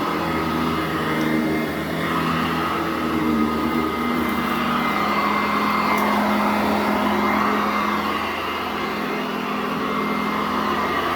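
A 2010 Sanitaire SC899 commercial upright vacuum cleaner running steadily over carpet, its motor note wavering slightly up and down.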